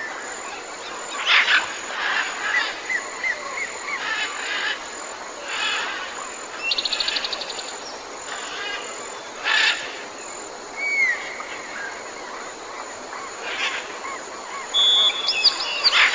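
Several wild birds calling and singing: short whistled notes, sharp calls, and a fast trill of about ten notes near the middle, over a steady high-pitched hum.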